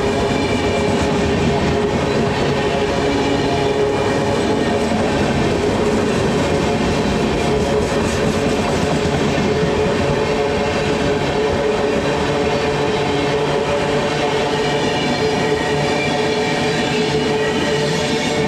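Express train passing through a station at speed without stopping: a loud, steady rumble and rattle of wheels on rail, with a steady tone held over it.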